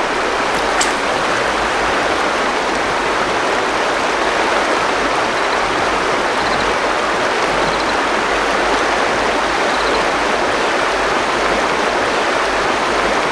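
River water rushing steadily over rocks in the current, a constant even rush. A short click about a second in.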